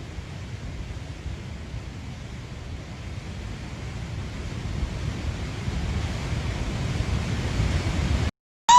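Steady rushing of a flash-flooded mountain torrent in a heavy storm, with wind on the microphone, slowly growing louder and then cutting off abruptly near the end.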